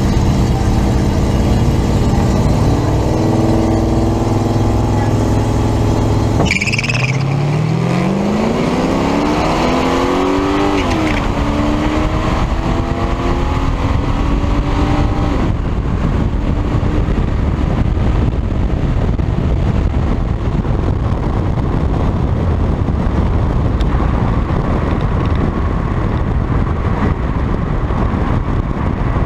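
Datsun 260Z's naturally aspirated straight-six revving at the drag-strip start line, then launching and accelerating hard, its note climbing and dropping back with at least two upshifts. After about fifteen seconds a steady rush of wind and road noise covers the engine.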